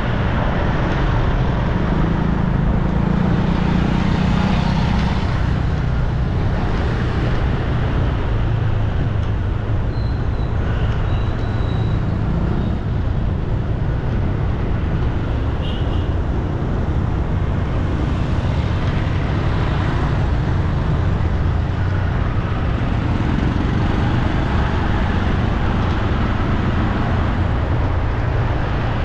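Steady city street traffic noise: a continuous rumble of passing motor vehicles.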